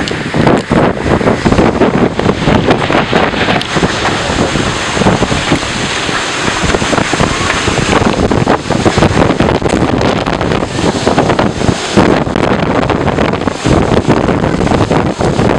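Violent storm wind blasting the microphone in loud, uneven gusts, a continuous rush with no letup.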